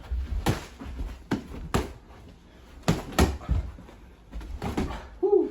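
Scuffle of an indoor sparring bout: irregular thuds and knocks, about nine in five seconds, as punches land and bodies bump a door or wall in a small room. A short grunt comes near the end.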